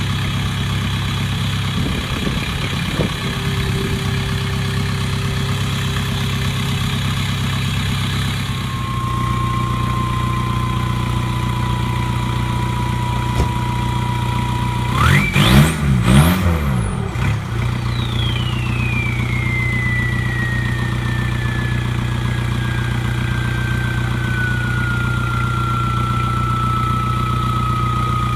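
2001 VW Jetta TDI's 1.9-litre ALH turbodiesel idling shortly after a cold start, through a 2.5-inch turbo-back straight-pipe exhaust, with one short blip of the throttle about halfway through. A thin high whistle comes in about a third of the way, jumps up with the rev and then slowly falls back in pitch.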